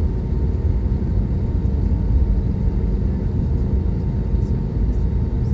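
Steady low rumble of cabin noise inside an Airbus A320neo, heard from a window seat, with a faint steady tone above it.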